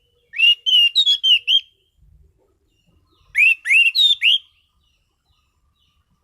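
Anis cendana (orange-banded thrush) singing two loud phrases of quick, clear whistled notes, each note sweeping up and then holding. The phrases are about two seconds apart.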